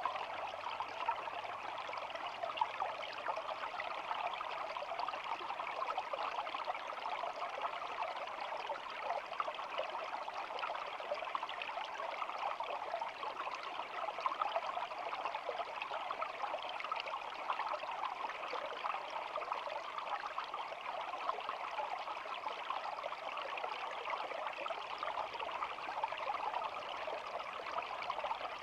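Shallow stream babbling steadily, water trickling and splashing in a continuous bright rush.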